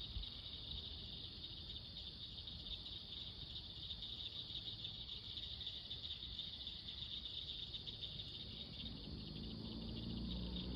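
A steady night chorus of crickets trilling. A low hum builds underneath near the end.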